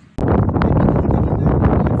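Strong wind buffeting the microphone, a loud low rumbling rush that starts abruptly just after the start.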